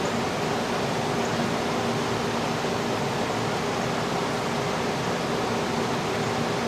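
Steady hiss with a faint low hum, even and unchanging, like a fan or air conditioning running in a room.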